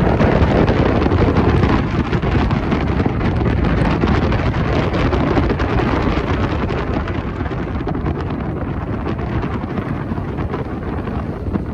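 A train rumbling past close by, with wind buffeting the microphone. The noise is loudest in the first two seconds and slowly eases off, with no horn.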